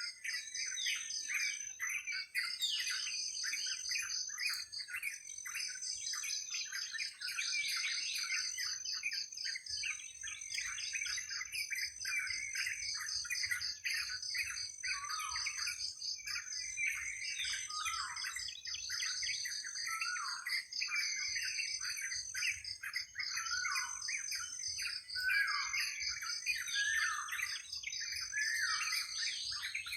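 Many birds chirping and calling over one another in a dense, continuous chorus, many calls sweeping down in pitch, over a steady high-pitched pulsing trill.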